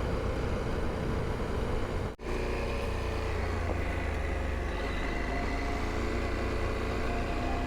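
2022 KTM 890 Adventure R's parallel-twin engine running steadily under riding. The engine sound is a low rumble, cut by a brief gap about two seconds in.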